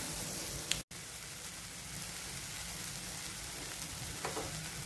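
Onions, tomatoes and green chillies sizzling steadily in ghee in a pan. The sound cuts out for an instant a little under a second in.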